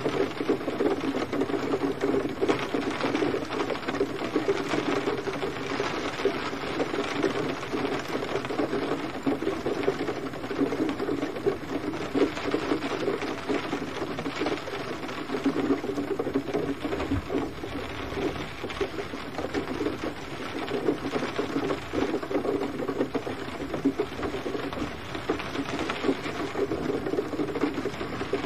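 Steady gentle rain: a dense, even patter of many small drops with no let-up.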